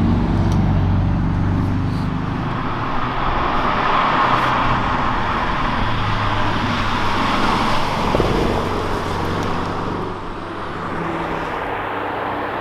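Porsche Cayman S engine running at speed under load, its note shifting up and down, over heavy tyre and road noise that swells in the middle and eases off near the end.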